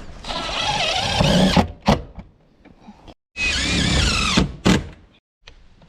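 Rubber roof gasket being worked down over the metal stove pipe, rubbing and squeaking in two long scraping pushes, each ending in a sharp knock.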